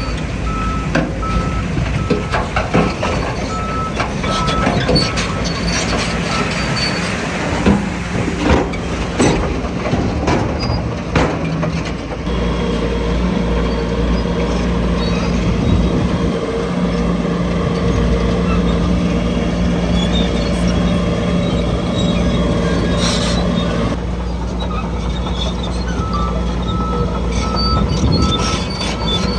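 Heavy construction machinery with diesel engines running steadily. A truck's reversing beeper sounds a steady series of beeps at first and again near the end, with a run of sharp knocks and clatters in between.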